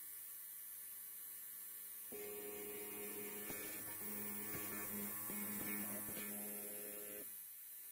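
Electric hair clipper buzzing steadily. About two seconds in it gets louder and rougher with a crackling texture, then eases back shortly before the end.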